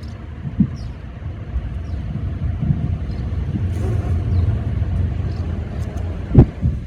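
Low rumble of a passing car that swells and then fades, with a single sharp thump near the end and faint high chirps above it.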